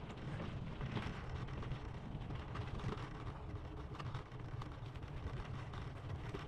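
Steady low rumble of a bicycle rolling along a paved trail, with wind on the camera microphone and scattered light clicks and rattles from the moving bike.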